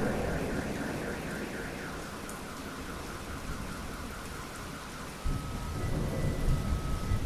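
Steady rain with thunder: a rolling rumble dies away over the first couple of seconds, and a new low rumble breaks in suddenly about five seconds in.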